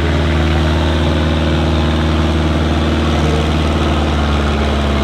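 Heavy truck engine running steadily at an even, low speed.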